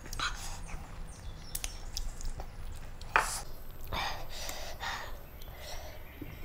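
Close-up chewing and wet mouth sounds of eating rice and chicken gravy by hand, with short smacks and squelches. A sharp smack about three seconds in is the loudest, and near the end fingers squish rice on the plate.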